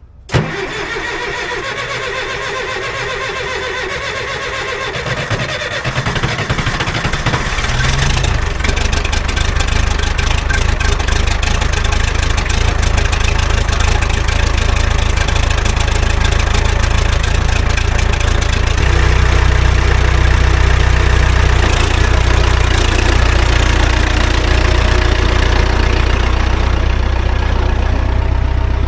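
An engine starting with a sudden burst, then running steadily. Its low hum grows louder about eight seconds in and again a little past the middle, as the engine speeds up.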